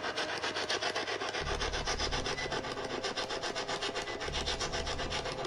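Spirit Box radio sweeping through stations: a rapid, even chopping of static as it jumps from frequency to frequency.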